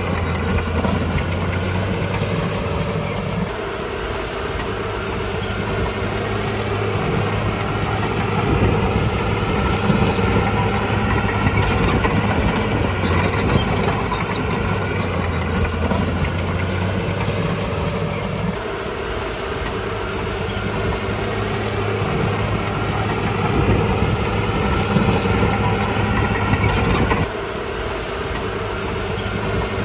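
Diesel engine of heavy earthmoving machinery running steadily, with a low, even hum that shifts in level and pitch a few times.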